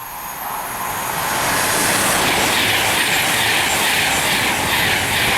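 A Virgin Trains express passenger train passing through the station at speed: a loud rushing roar that builds over the first couple of seconds and then holds steady as the train goes by.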